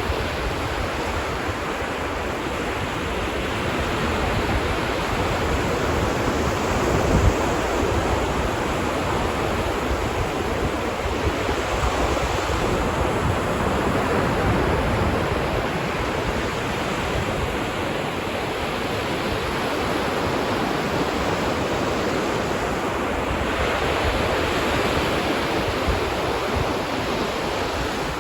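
Ocean waves breaking and washing on a beach, a continuous surf noise that swells and eases every few seconds, with a low rumble from wind on the microphone.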